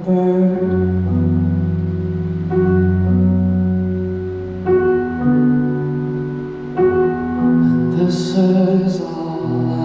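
Slow live band music: sustained chords that shift every couple of seconds, with a brief high shimmer about eight seconds in.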